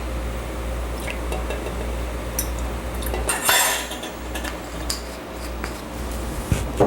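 Kitchen utensils clinking and tapping against dishes while ingredients are measured out, with a louder clatter about three and a half seconds in, over a steady low hum.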